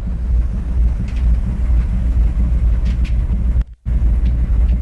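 A boat's engine rumbles steadily, with wind on the microphone on the open deck. The sound cuts out briefly about three-quarters of the way through.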